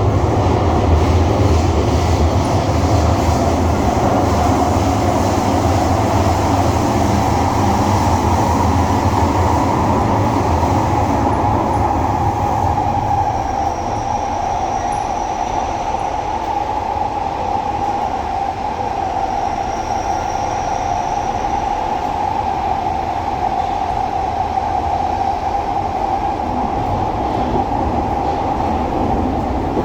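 Metro train running through a tunnel, heard from inside the carriage: a loud, steady rumble of the wheels on the rails, with the traction motors' whine rising in pitch over about the first ten seconds as the train gathers speed, then holding steady.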